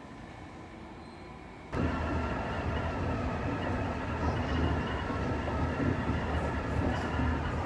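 Electric train running on the rails: a steady low rumble with several steady tones above it. It comes in abruptly about two seconds in, over a quieter steady hum.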